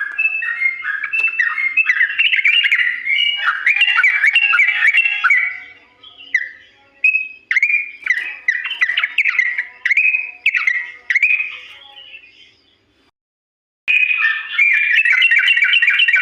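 Yellow-vented bulbul (trucukan) singing a long, rapid chattering song of quick notes. The song breaks into shorter separate phrases halfway through, stops dead for about a second, then resumes loud and dense near the end.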